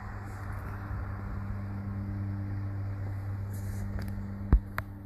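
Vehicle engine idling steadily with a low hum. A sharp knock about four and a half seconds in, then a lighter click.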